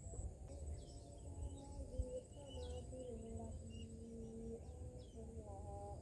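Outdoor ambience of scattered bird chirps, short calls with quick downward sweeps, over a steady high insect trill and a constant low rumble. Soft held low tones that step in pitch run underneath.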